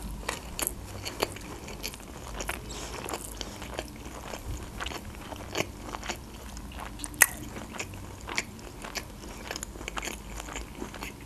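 A person chewing a mouthful of baked shrimp sushi roll with the mouth closed: wet mouth clicks and smacks at an irregular pace.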